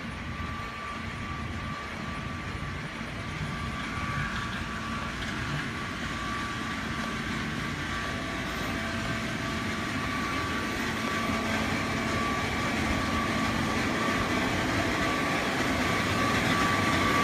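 Steady rumble of a moving vehicle, growing gradually louder, with a faint steady high whine.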